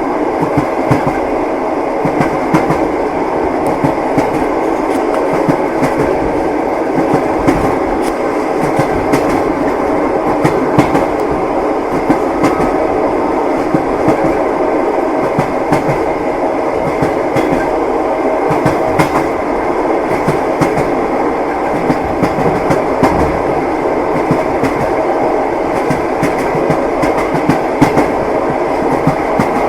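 Passenger train running on rails: a steady rumble with the frequent, irregular clatter of wheels over the rail joints.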